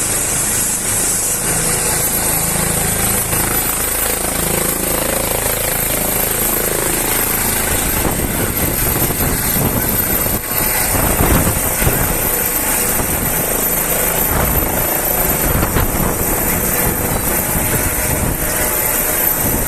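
Trauma helicopter running close by on the ground as it runs up for takeoff. Its engine whine rises slowly in pitch over a loud, steady rotor noise, and the rotor noise grows heavier and more fluttering about ten seconds in.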